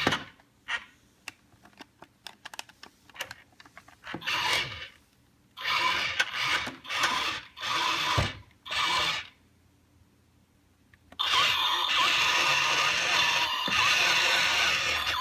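Battery-powered Noo Noo toys switched on and running: a scatter of small plastic clicks, then several short noisy bursts, then, about two-thirds of the way through, a loud steady hissing whoosh sets in and keeps going.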